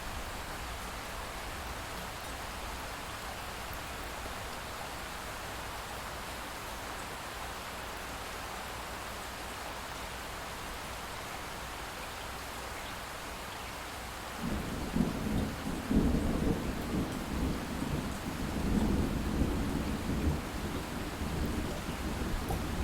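Steady light rain, joined about two-thirds of the way through by a long, low rumble of distant thunder that swells and rolls on to the end.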